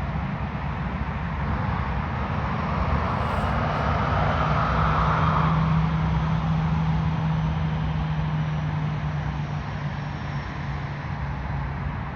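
Jet airliner's engines passing, a loud rushing roar with a low steady hum that swells to a peak about halfway through and then slowly fades.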